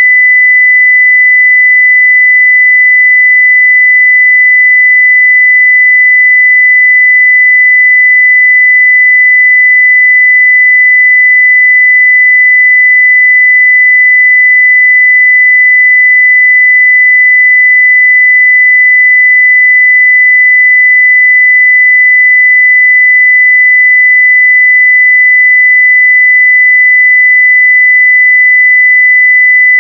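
A continuous 2 kHz sine-wave test tone at 0 dB full scale, one pure steady pitch at constant level.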